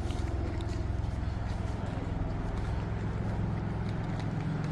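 A car engine idling steadily, low and even throughout.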